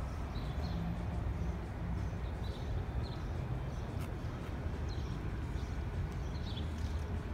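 Outdoor background: a steady low rumble, with short high bird chirps repeating every half second to a second.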